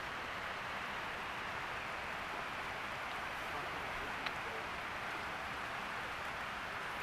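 Steady rush of flowing river water, with one short click about four seconds in.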